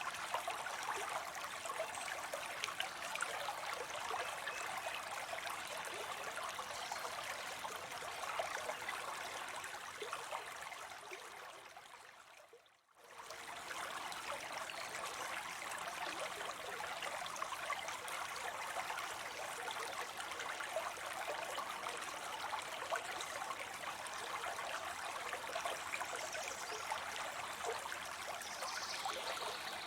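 Water spilling into a pond in a small fall, a steady splashing rush. A little before halfway it fades away almost to nothing for about a second, then comes straight back.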